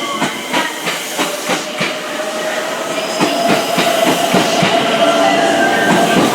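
Electric train running through the station, its wheels clicking over rail joints a few times a second, with a steady motor whine.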